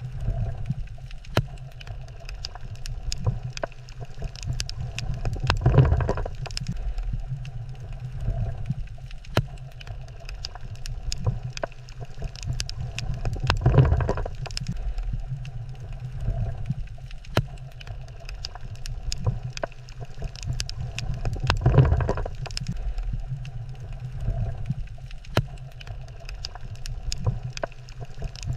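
Water ambience recorded at a coral reef: a steady low rumble with a constant crackle of sharp clicks, and a louder whooshing swell about every eight seconds.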